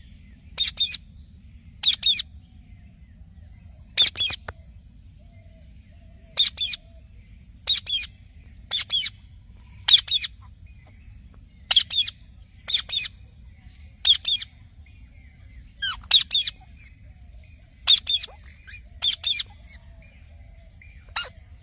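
Parrot giving short, sharp chirping calls, singly or in quick pairs, about one every second, over a steady low background hum.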